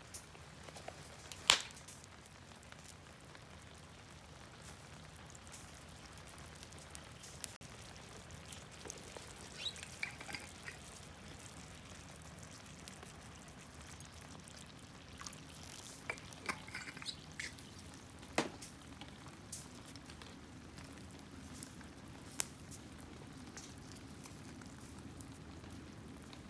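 Cooking over a wood fire: scattered sharp pops and clicks, a few light clinks, and liquid dripping over a faint steady background.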